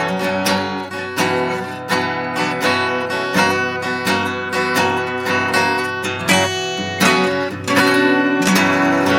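Instrumental break in a song: acoustic guitar strumming in a steady rhythm, with no singing.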